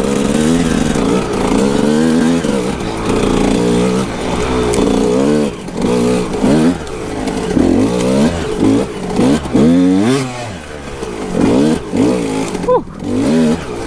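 Kawasaki KX125 dirt bike's 125 cc single-cylinder two-stroke engine being ridden hard, its pitch rising and falling again and again as the throttle is opened and closed, with quick revs in the second half.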